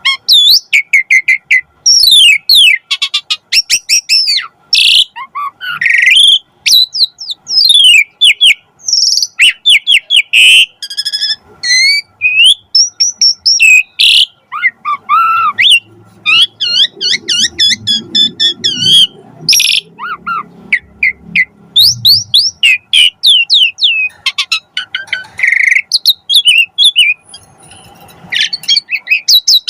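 Pied starling (jalak suren) singing vigorously: a long, varied run of loud whistles, rapid trills, sharp chattering notes and rising and falling glides, broken by short pauses.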